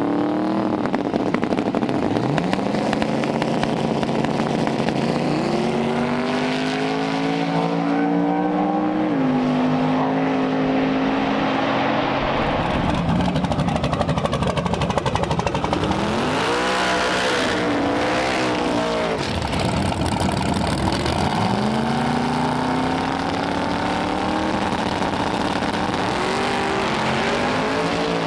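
Drag racing car engines revving and accelerating, their pitch sweeping up and then holding, about half a dozen times over, loud and continuous.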